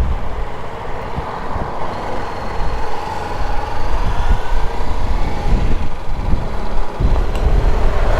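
Motorcycle running on the move, with a heavy, steady low rumble of wind and road noise on the microphone and the engine's tone wavering faintly underneath.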